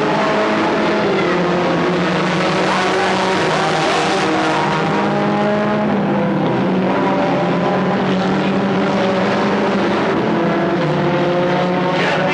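Several stock car engines running hard together around the track, a steady loud drone in which the pitches of different cars slide up and down as they pass.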